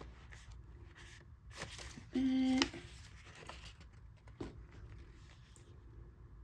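Paper pages and card of a handmade junk journal being handled and shifted, soft rustles with a tap about four and a half seconds in. A short steady hum, like a closed-mouth "mm", about two seconds in is the loudest sound.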